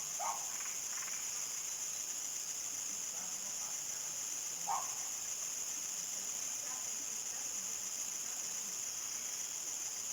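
Steady high-pitched trilling chorus of crickets at nightfall in the countryside, with a couple of short chirps just after the start and again near the middle.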